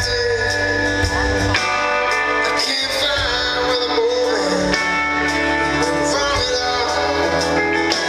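Live rock band playing at a sound check: a male voice singing over guitar, bass and a steady drum beat.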